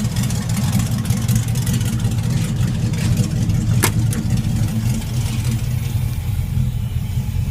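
5.3 Vortec V8 with shorty headers and straight exhaust piping running steadily with a deep, even exhaust rumble. A single sharp click sounds a little before the middle.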